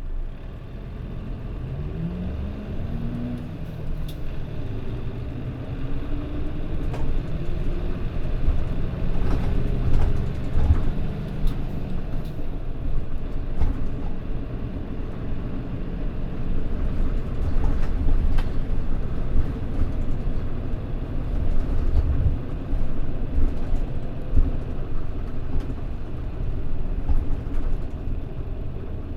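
Mitsubishi Fuso Aero Star city bus's diesel engine heard from inside the cabin, rising in pitch twice as the bus accelerates and shifts up, then running steadily under low road rumble.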